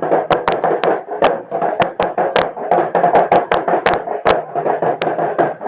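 Street-dance percussion: sharp drum hits about five a second, over the hubbub of a crowd.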